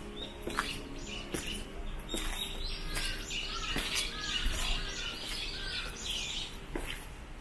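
Small birds chirping in quick runs of short, high notes, busiest in the middle of the stretch, with footsteps tapping along a little more than once a second.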